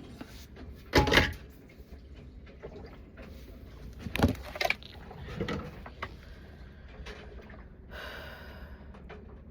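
Several sharp knocks and clatters: one about a second in, and a cluster from about four to five and a half seconds in, with a brief hiss near the end.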